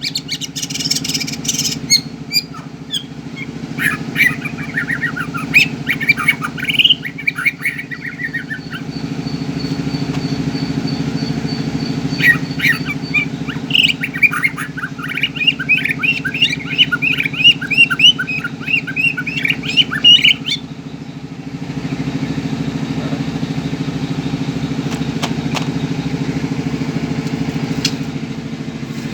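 White-rumped shama (murai batu) singing: two spells of rapid, varied chirps and whistles, the second longer, over a steady low engine hum.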